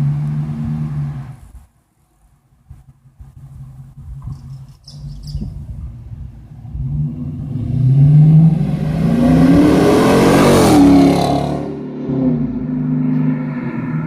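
Dodge Charger's 5.7-litre Hemi V8 through Flowmaster Super 44 mufflers, driving by. A short stretch of engine sound cuts off after about a second and a half. The exhaust then builds as the car accelerates past, loudest around eight to eleven seconds in, with the pitch rising and then dropping as it goes by, before settling to a lower steady rumble.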